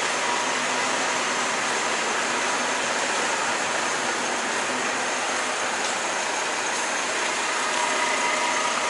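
Semi truck's diesel engine running with a steady hiss as the truck moves out of the shop.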